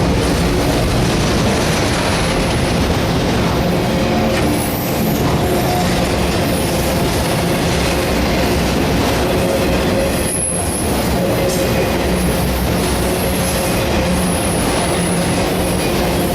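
Freight train autorack cars rolling past at a steady, loud level, with high-pitched steel wheel squeal coming and going.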